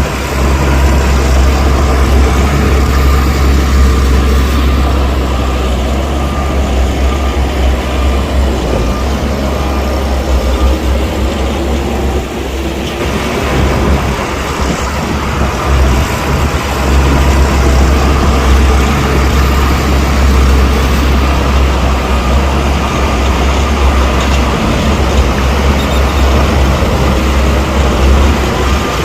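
Diesel engine of heavy earthmoving equipment running, a loud steady rumble that eases briefly about twelve seconds in.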